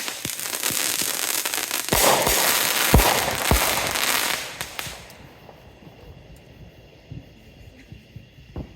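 Fireworks crackling densely, with sharp bangs about two, three and three and a half seconds in. The crackle dies away a little past halfway, leaving a few scattered pops.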